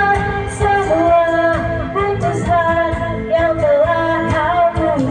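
A solo voice singing a slow pop ballad in a high, falsetto-style voice, holding long notes that glide between pitches, over backing music.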